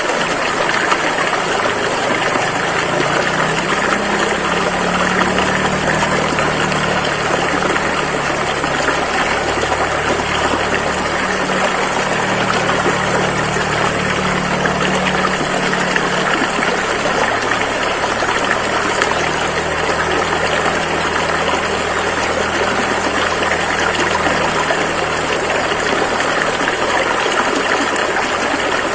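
Rushing river water flowing steadily, an unbroken rush with a low rumble underneath that swells and eases.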